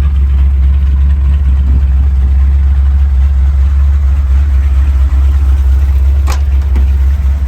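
1979 Ford Bronco's 351M V8 idling steadily while warming up, with the carburetor not yet fine-tuned. A single sharp click about six seconds in.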